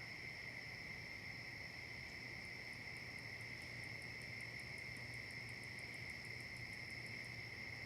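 Crickets and other insects trilling steadily in a late-season chorus. A second, higher insect call of rapid ticks, about six a second, joins about two and a half seconds in and stops near the end.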